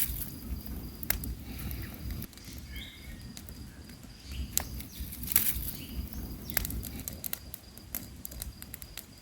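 Wood bonfire crackling, with scattered sharp pops and snaps over a low rumble, and a steady high-pitched insect drone behind it.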